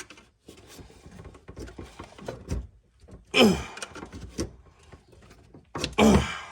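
A man grunting and sighing with effort twice, each sound falling in pitch, as he strains to pull off a stuck wiring connector that will not budge. Faint clicks and handling noise fall in between.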